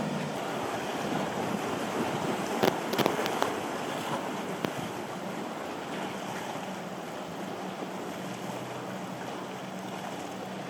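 Motorboat engine running over surf and breaking waves, with wind on the microphone. A few sharp knocks come about three seconds in.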